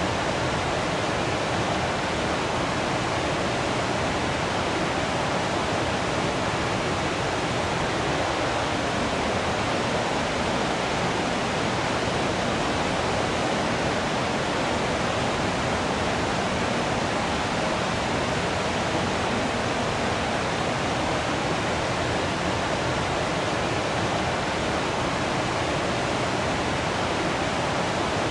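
Waterfall rushing with a steady, even roar of falling water, unchanging throughout.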